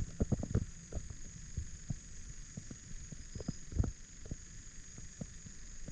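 Irregular low thumps and rumbles on the microphone, several a second, loudest at the very start and again just before the four-second mark, over a steady faint high-pitched drone.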